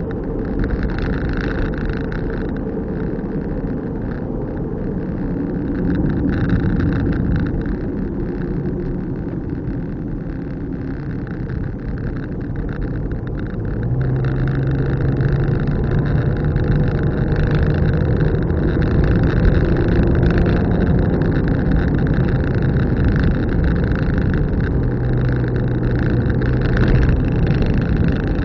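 Car driving, with steady engine and road noise. About halfway through it gets louder and a steady low engine hum comes in.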